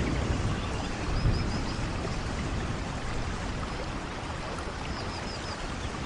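Steady rainforest rain, an even hiss of rainfall, with a brief low rumble about a second in. Faint high chirps come in quick groups of three, twice.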